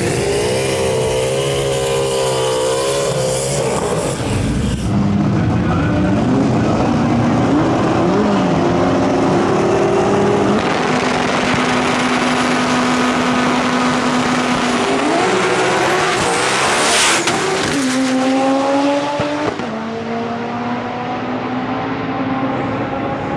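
Drag race car engines revving and running hard, their pitch wavering, climbing and dropping, with a sharp crack about seventeen seconds in.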